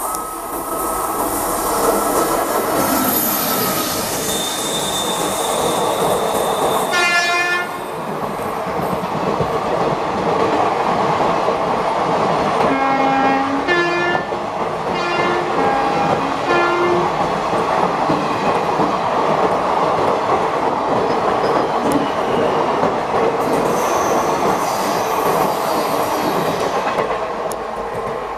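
An Indian Railways express train runs through the station at speed: a loud steady rumble and clatter of its coach wheels on the rails, building at the start and falling away near the end as the last coach recedes. A brief high squeal comes about a quarter of the way in, and a few short horn toots sound near the middle.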